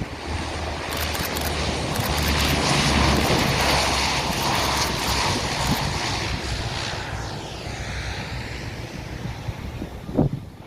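A jet aircraft flying past: a rushing engine noise that swells over about two seconds, holds at its loudest, then fades as it moves away, with a sweeping, phasing tone on the way out. Wind buffets the microphone, and there is a short knock near the end.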